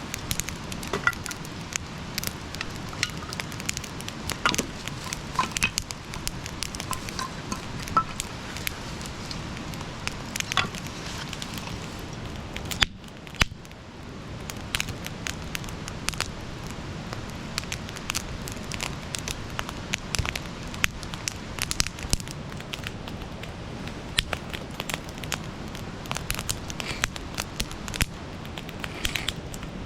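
Wood fire crackling, with a steady low hiss and frequent sharp pops and snaps at irregular intervals. There is one louder pop, followed by a short lull, about thirteen seconds in.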